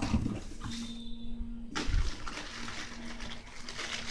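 Handling noise as a cardboard box and its packing are moved aside: an uneven rustling hiss, with a dull low thump about two seconds in.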